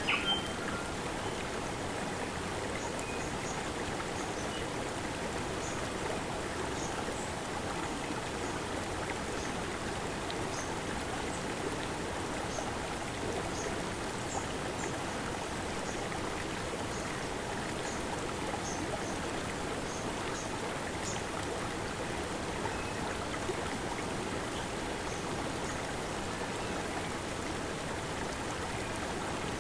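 Shallow forest stream running over and between boulders: a steady, even burble of flowing water.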